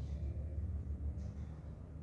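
Steady low rumble with a brief faint scrape about a second in, as a carving instrument scrapes across a tooth model.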